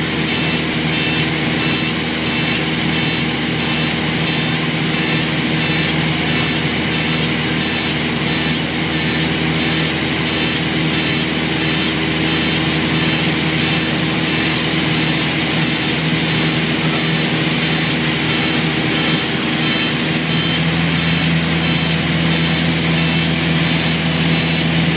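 Beechcraft Duchess piston aircraft engine running steadily, with a rapid high-pitched beep repeating a few times a second throughout. The engine note shifts slightly about 20 seconds in.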